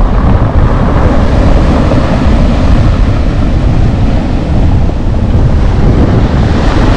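Strong gusty wind buffeting the microphone over Black Sea surf breaking on the beach.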